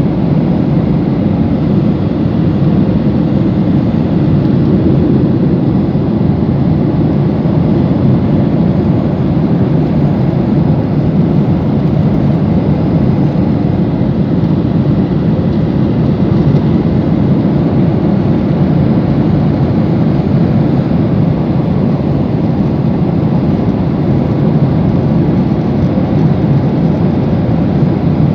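Steady rumble of a jet airliner cabin in flight, engine and air noise without change.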